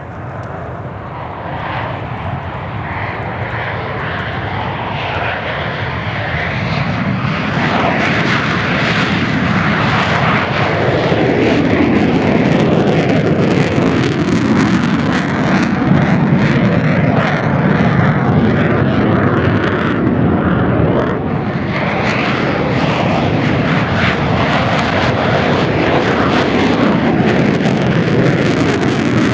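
Jet engine noise of Mitsubishi F-2A fighters on a fly-by. The roar builds over the first several seconds, drops in pitch as they pass, and stays loud to the end.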